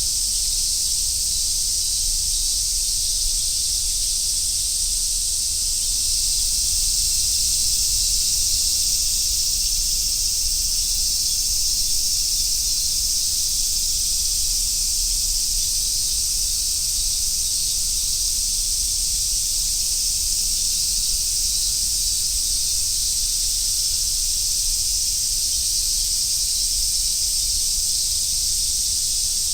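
A dense chorus of summer cicadas, a continuous high sizzling drone that holds steady throughout, over a faint low rumble.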